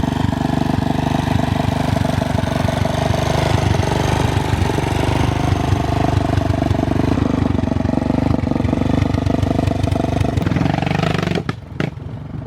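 Off-road vehicle engine running at a fairly steady speed, its note wandering slightly, then breaking up and dropping out in the last second or so.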